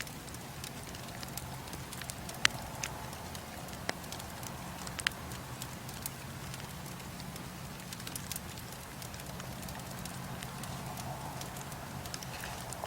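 Bonfire burning: a steady low rush of flames with scattered sharp crackles and pops, the loudest about two and a half seconds in.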